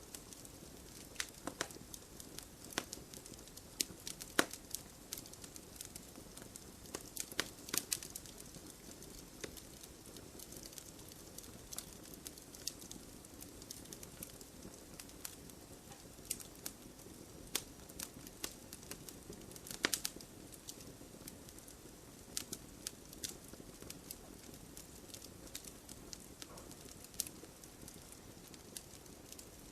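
Wood fire burning, crackling steadily with irregular sharp pops over a soft low rush, a couple of louder pops about four seconds in and again near the middle.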